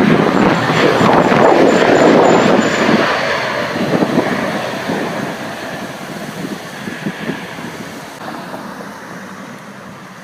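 Jet engine noise of a landing Airbus A320, loud at first and then fading steadily as the aircraft moves away, with wind buffeting the microphone.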